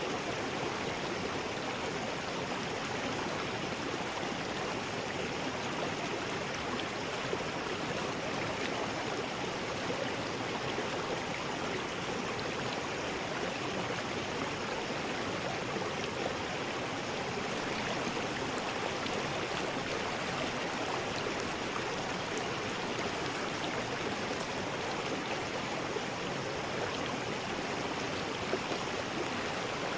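River rapids: water rushing steadily over rocks, with no pauses or changes.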